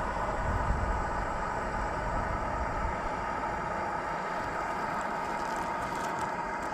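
A steady mechanical hum holding several even tones, with a low rumble underneath.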